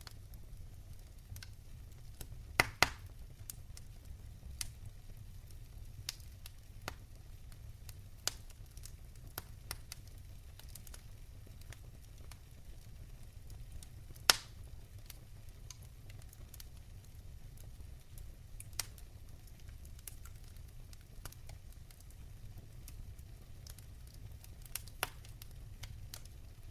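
Wood fire crackling: scattered sharp pops over a low steady rumble, the loudest a quick pair of pops about three seconds in and a single pop near the middle.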